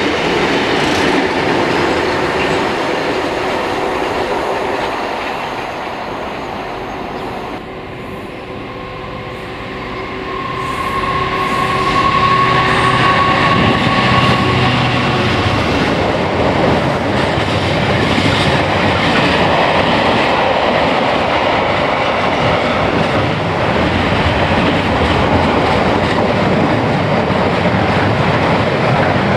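A train running past on the line, wheels on the rails making a continuous noise. It dips briefly about eight seconds in, then builds up again and stays loud.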